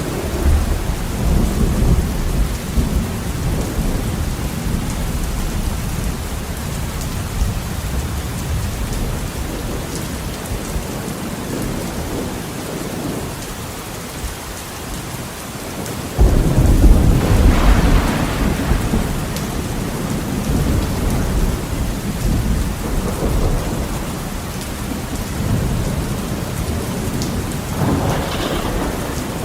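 Heavy rain pattering on a window during a thunderstorm, with thunder rumbling. About halfway through a sudden loud thunderclap breaks in and rolls for a few seconds; fainter rumbles come near the start and near the end.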